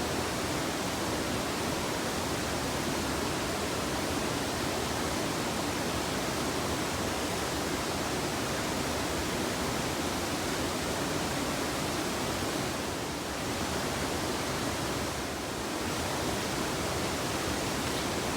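Rushing water of a river rapid, a steady even rush of white water that eases slightly twice near the end.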